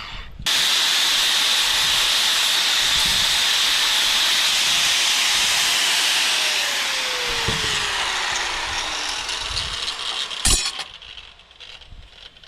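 Abrasive cut-off wheel cutting through steel flat stock: a steady, loud grinding hiss that starts sharply about half a second in and runs for about ten seconds. The cut ends with a knock, and the noise then falls away.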